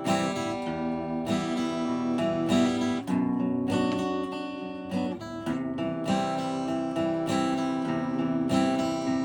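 Acoustic guitar strummed in a steady chord pattern, each chord ringing on until the next strum.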